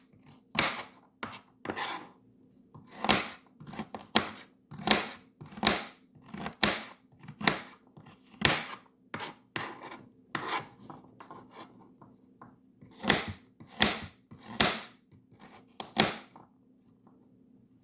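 Kitchen knife chopping baby carrots on a cutting board: a series of sharp, uneven cuts, about one or two a second, that stop shortly before the end.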